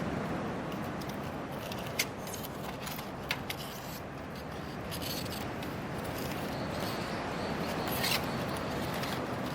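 Hardwood firewood burning in a campfire: a steady hiss of flames with scattered crackles and a few sharp pops, the clearest about two seconds in, twice around three and a half seconds, and once near the end.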